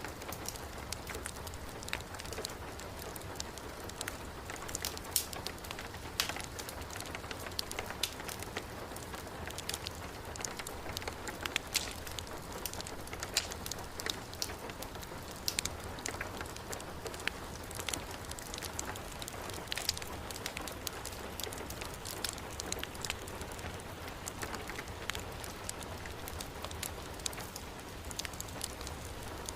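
Heavy rain falling steadily, mixed with a fireplace crackling: many short, sharp pops scattered through the even rush of the rain.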